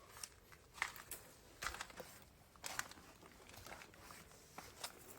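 Faint, irregular crunching and crackling of dry grit and debris, in short separate crunches about a second apart.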